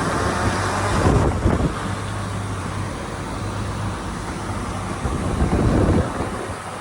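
Heavy diesel earthmoving machinery running steadily with a low hum. It grows louder twice, about a second in and again from about five to six seconds, as if under load.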